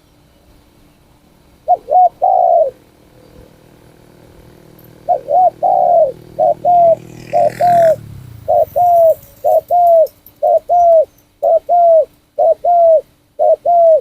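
Spotted dove (nok khao yai) cooing: a short phrase of three coos about two seconds in, then a long run of repeated coos from about five seconds in. A low droning hum underneath fades out about eight seconds in.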